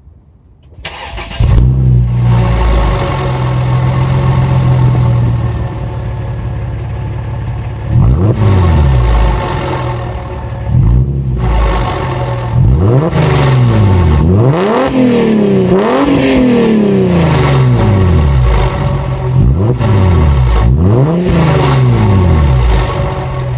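Mercedes ML350's M272 V6 with its mufflers cut off, starting up about a second in and running at a loud, steady idle. From about eight seconds on it is revved in a string of quick throttle blips, the pitch rising and falling with each.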